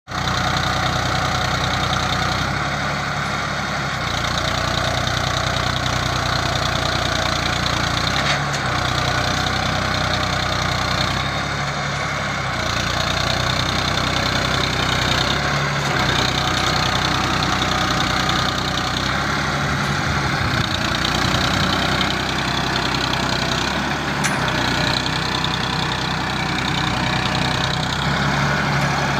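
Tractor's diesel engine running steadily, its speed and note shifting several times.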